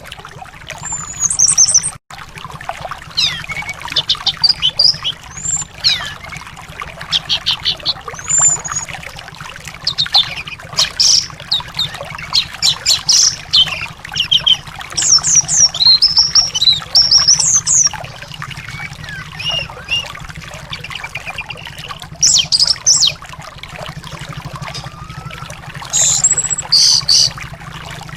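A songbird singing many short, high whistled and chirping phrases over a steady trickle of running water, the kind of recording played as song therapy for caged anis thrushes.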